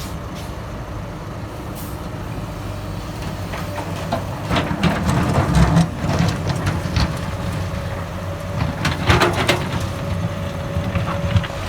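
Heavy diesel earthmoving machinery running steadily, with two spells of clattering and scraping about halfway through and again about two-thirds through, typical of an excavator bucket working laterite soil into a dump truck.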